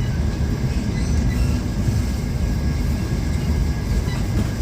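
Passenger train running on the rails, heard from inside the coach: a steady low rumble with a few faint ticks.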